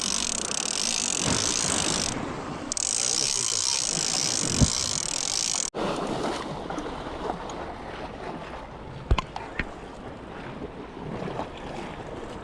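Wind buffeting the microphone over the wash of surf on a rocky shore. It breaks off sharply about six seconds in, leaving a quieter wash of water with a few short knocks.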